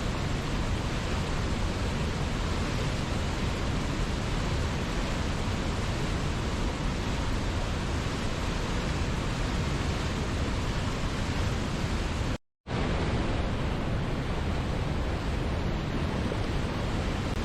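Waterfall, a steady even rushing of falling water, broken by a brief dropout to silence about twelve seconds in.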